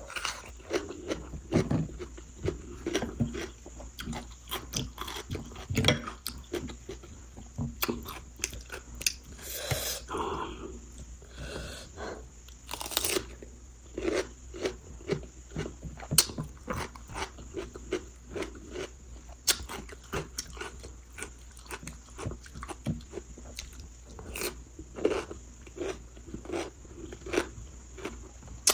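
Close-miked eating: steady chewing and crunching with wet mouth clicks, a few crunches standing out louder than the rest.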